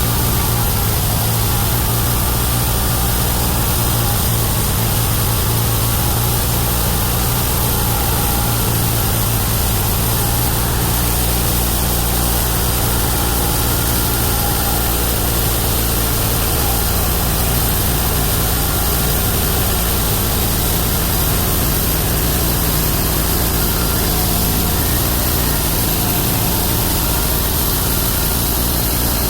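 Homemade bandsaw mill running steadily on its 31 hp engine, a continuous loud mechanical drone from the engine and the running band blade. The low hum shifts lower about halfway through.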